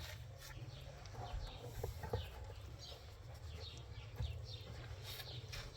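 Faint birds chirping, many short high chirps that each fall in pitch, over a steady low hum.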